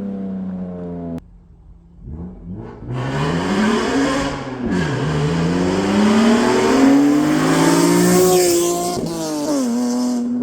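BMW E46 M3's 3.2-litre S54 straight-six through a Valvetronic exhaust. A steady drone cuts off abruptly about a second in; after a short lull the engine revs up hard, drops in pitch at an upshift about halfway through, and climbs again. It falls off near the end and settles back to a steady drone.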